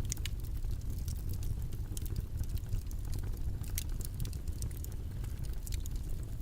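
Steady low background noise, like a rumble, with many small light clicks and ticks scattered irregularly over it.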